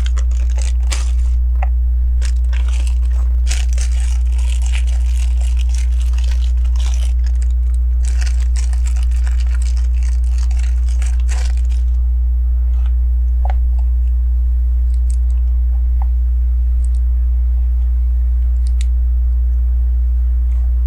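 Hands rummaging through loose LEGO pieces: a dense rustling, crinkling clatter for about twelve seconds, then a few scattered clicks of single bricks. A steady low electrical hum runs underneath and is the loudest sound.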